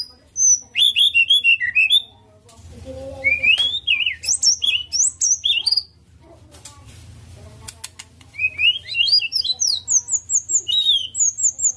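White-rumped shama singing in three bursts of rapid whistled notes that glide up and down, mixed with short chattering phrases, with brief pauses between bursts.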